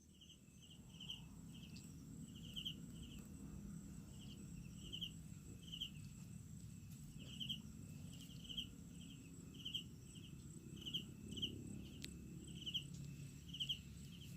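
Night insects: a cricket chirping in short pulsed chirps, about one or two a second, over a thin steady high-pitched whine and a low background rumble.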